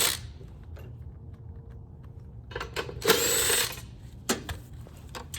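A 3/8 socket on a power driver spinning a bolt out of a snowblower's pull-start housing in one short burst about three seconds in, with clicks and knocks of the tool and parts being handled around it.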